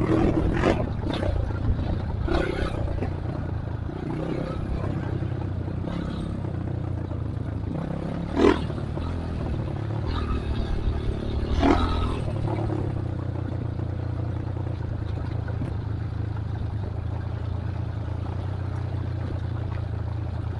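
Trail motorcycle engine running steadily, with a few sharp knocks and clatters over it, the loudest about eight and a half seconds in and another near twelve seconds.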